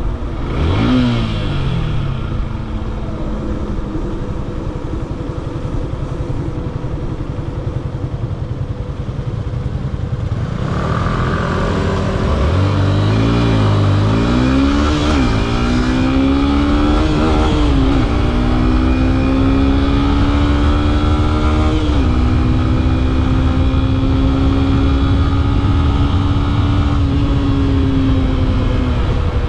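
Yamaha FZ S V3 150cc single-cylinder motorcycle engine heard from the rider's seat. It runs low and steady at first, then accelerates hard from about a third of the way in, its pitch climbing through several upshifts. It holds a steady cruise and eases off near the end.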